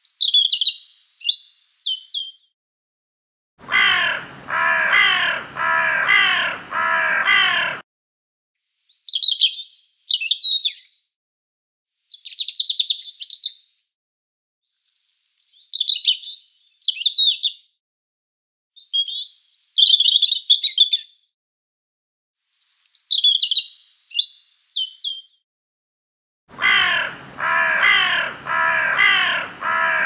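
Short, high-pitched songbird phrases with pauses between them, broken twice by a crow giving about four harsh caws in a row.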